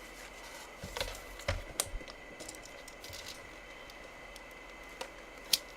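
Light handling sounds as a sticker is cut off a baseball bat's barrel: a few soft clicks and scrapes, with a sharper click about five and a half seconds in.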